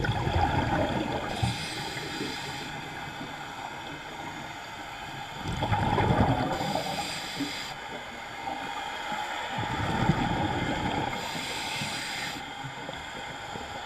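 Scuba diver breathing through a regulator underwater: a burst of exhaled bubbles, then a hiss of air on the inhale, three breaths about five seconds apart.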